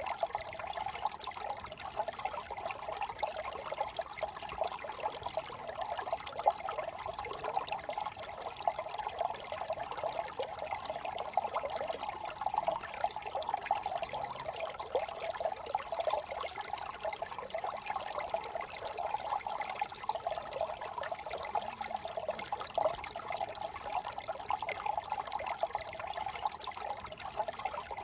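Small shallow brook trickling and burbling over stones, a steady flowing babble with dense quick splashes.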